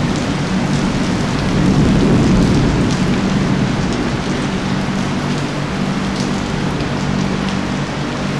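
Heavy rain pouring onto metal roofs and pavement, a dense steady hiss with scattered drop ticks. A low rumble of thunder swells about two seconds in and slowly fades under the rain.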